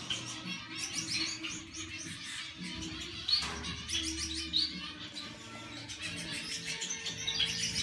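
Caged pet birds chirping: many short, high calls overlapping throughout.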